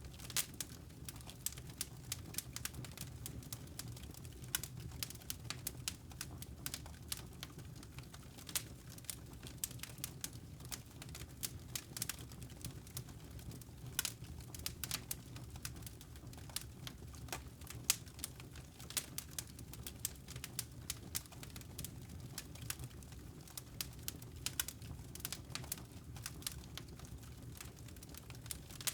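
Wood fire crackling in a fireplace: irregular sharp pops and snaps, several a second, over a low steady background.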